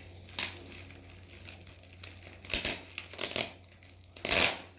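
Crinkling and rustling of a taped postal envelope being handled, in several short bursts, the loudest near the end.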